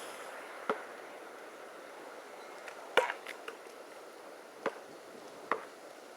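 Sharp knocks and taps, about six of them at uneven intervals, the loudest about three seconds in, over a steady background hiss.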